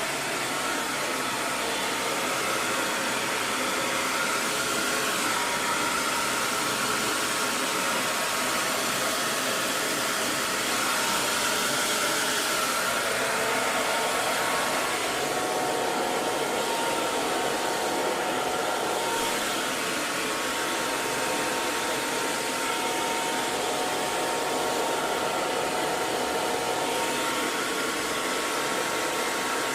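Electric hair dryer running steadily: a continuous airy rush of blown air, with a faint steady motor whine.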